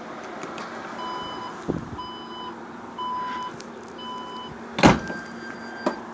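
Electronic beeps, four evenly spaced at about one a second, then a single loud knock and a higher, longer beep.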